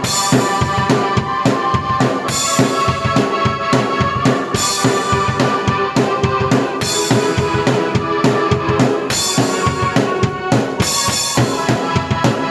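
Drum kit with bass drum and snare played together with a keyboard in an up-tempo original piece, dense drum hits under sustained keyboard notes.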